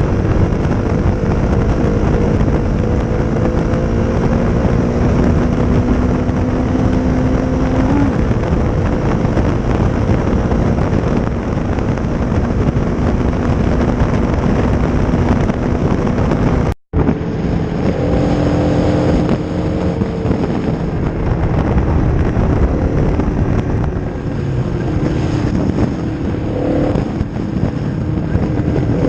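Honda CRF250's single-cylinder engine running through a Leo Vince aftermarket exhaust while riding at a fairly steady pace, its pitch holding or drifting slowly, with heavy wind noise on the microphone. The sound drops out for an instant about two-thirds of the way through.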